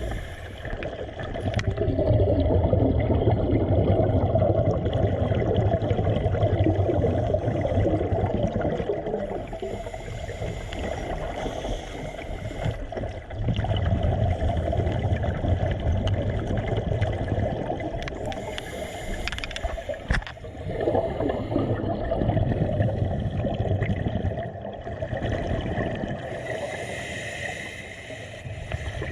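Water gurgling and sloshing with a low rumble underneath, swelling and easing in long stretches.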